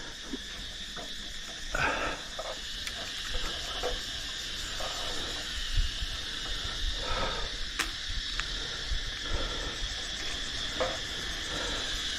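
A steady, high-pitched insect chorus drones throughout, with heavy breathing close to the microphone every couple of seconds from the cyclist exerting himself in the heat.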